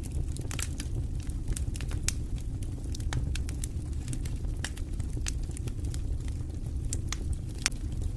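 Wood fire burning in a fireplace: irregular sharp crackles and pops several times a second over a steady low rumble of the flames.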